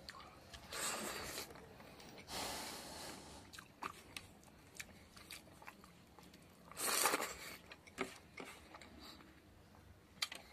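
A man eating rice and pork fat cooked with axone by hand, close to the microphone: wet chewing with many small mouth clicks, broken by a few louder hissing rushes, the loudest about seven seconds in.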